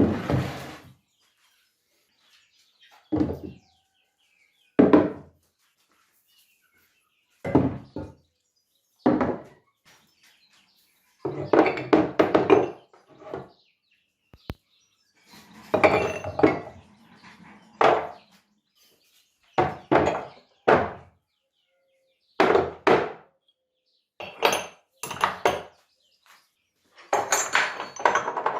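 Metal parts and hand tools clinking and knocking as they are handled, in about a dozen short, separate bursts of clatter with silent gaps between them.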